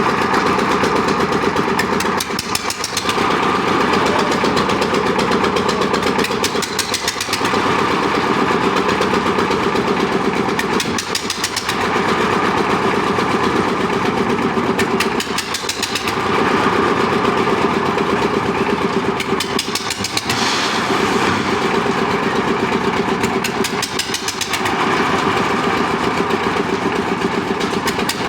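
Concrete mixer's engine running steadily, its sound easing briefly about every four to five seconds.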